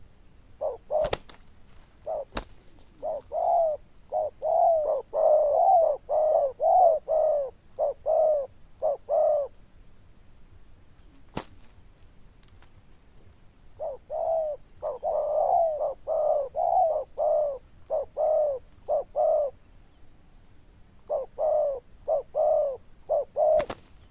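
Spotted dove cooing in three bouts of short, evenly repeated coos, with a few sharp clicks between the bouts.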